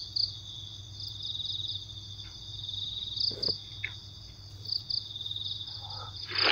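Crickets chirping in a steady, high pulsing trill, over a low steady hum, with a brief faint tap about three and a half seconds in.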